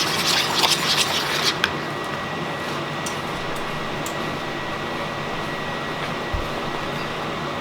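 A fork whisking a mayonnaise and sour cream sauce in a bowl, scraping and clicking for about the first second and a half. After that only the steady noise of a running kitchen fan remains.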